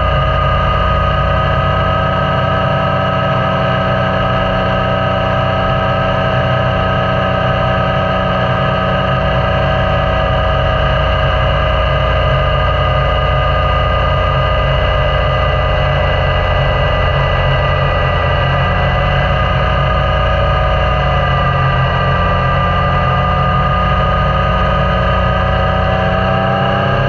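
Yamaha Niken's three-cylinder engine running at steady revs while riding. The note dips slightly about three quarters of the way through and begins to rise at the very end.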